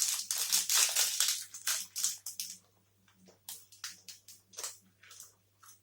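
Close-up eating sounds of a chewy blueberry protein bar: a dense crackly stretch for about the first two and a half seconds, then scattered short wet clicks of chewing.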